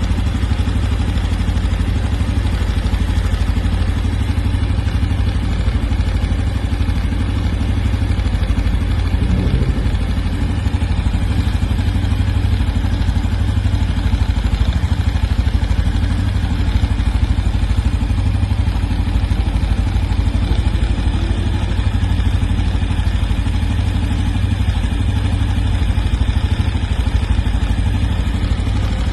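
Honda Biz 125's single-cylinder four-stroke engine running steadily, with a noise from the engine that the owner presents as abnormal.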